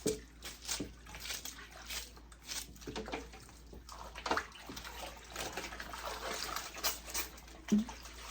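A wig being washed by hand in a basin of water, with irregular sloshing and splashing as it is squeezed and worked through the water.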